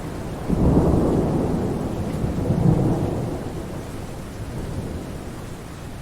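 Steady rain with a roll of thunder that swells about half a second in, peaks twice, and rumbles away over the following seconds.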